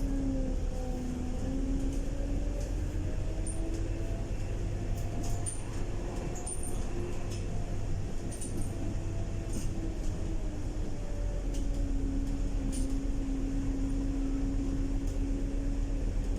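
Scania K230UB bus under way: the drivetrain drones with a steady tone that rises slightly and then eases back, over a low rumble, with scattered light clicks and rattles.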